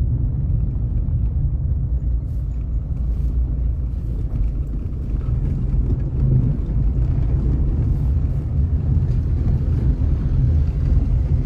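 Steady low rumble of a car travelling along a road.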